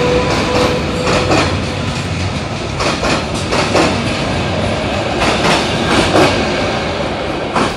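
Passenger coaches rolling past at low speed, a steady rumble with their wheels clicking over the rail joints, often two clicks close together as each bogie's axles cross.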